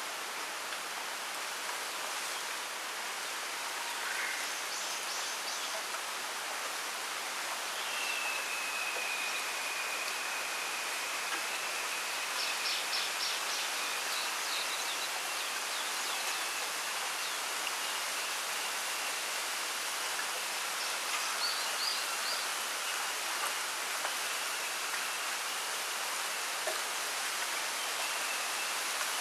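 Wind rustling through a bamboo grove as a steady hiss, with small birds chirping in short quick runs of high notes, three times. A thin, steady high whine runs underneath from about a quarter of the way in.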